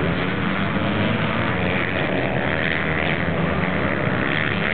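Pit bike engines racing, buzzing steadily with some rising and falling pitch as the riders work the throttle.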